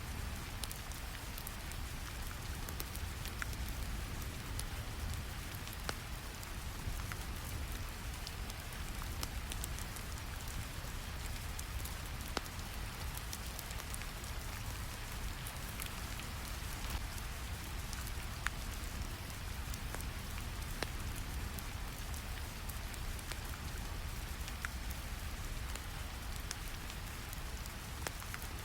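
Steady rain ambience over a constant deep brown-noise rumble, with scattered small crackles of a fire.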